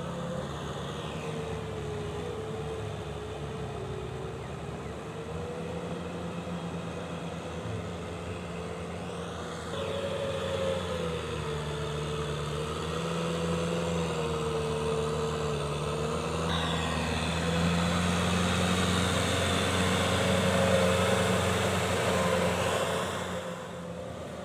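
Kubota M6040SU tractor's diesel engine running, its pitch wavering up and down as the revs shift. It gets louder about ten seconds in and again near seventeen seconds, then falls away near the end.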